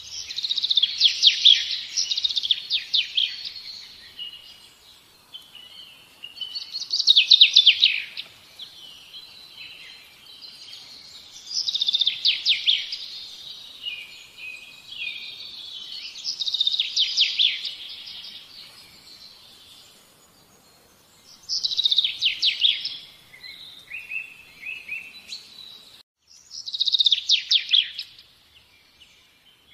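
Birdsong: a bird repeating a short, fast trilled phrase about every five seconds, with softer twittering between phrases.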